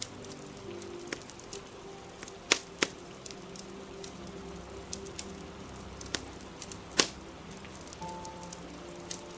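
Crackling fire with scattered sharp pops, three of them much louder than the rest, over a steady hiss of rain. Soft music with long held notes plays underneath.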